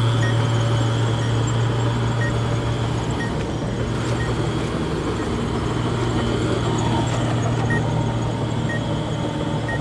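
Heavy diesel engine of a bulldozer running steadily, a low, even drone that holds without revving up or down.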